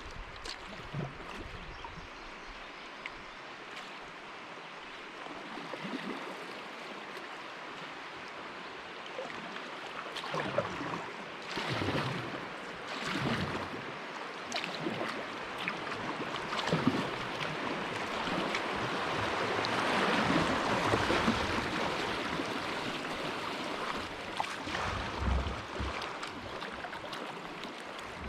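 River water running around a kayak, a steady rush that swells louder for a few seconds about eleven seconds in and again about twenty seconds in.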